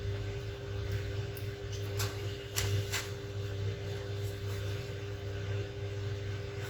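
Steady low electrical hum from running bench equipment, with a few faint clicks and taps.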